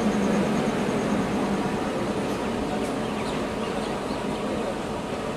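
Running noise of two trains moving side by side, heard from the open doorway of one of them: a steady rush of wheels on rail with a faint steady hum underneath.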